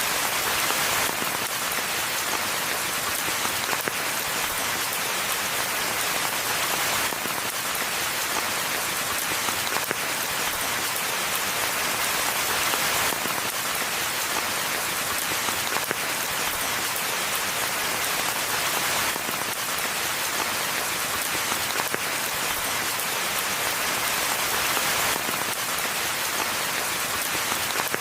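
Steady rainfall: a dense, even hiss of countless drops that holds at the same level throughout.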